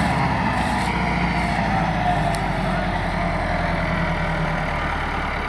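Massey Ferguson 385 tractor's four-cylinder diesel engine running steadily.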